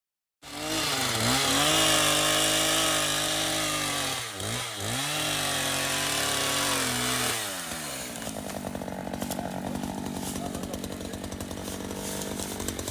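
Two-stroke chainsaw starting at high revs, dipping briefly about four seconds in and revving back up, then dropping to a steady pulsing idle a little after seven seconds.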